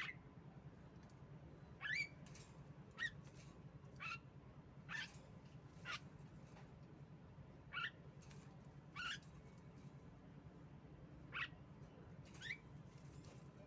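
Female Javan myna calling in short rising chirps, about one a second, over a faint steady low hum.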